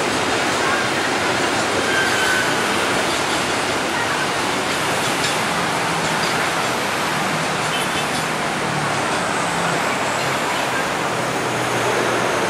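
Electric multiple-unit commuter train approaching along the track: a steady rushing running noise with a faint low hum underneath.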